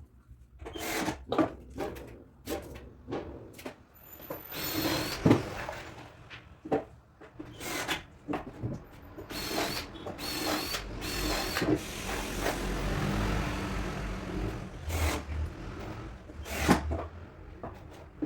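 Power drill running in several short runs of a second or more, with knocks and clatter from wooden panels being handled in between.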